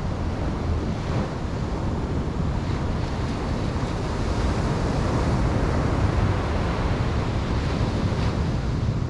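Ocean surf washing onto a beach, a steady rush of breaking waves that swells a little in the middle, with wind on the microphone.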